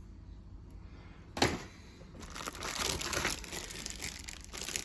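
Plastic bags of model-kit parts crinkling as they are handled, with a sharp knock about a second and a half in, as of a part or box being set down.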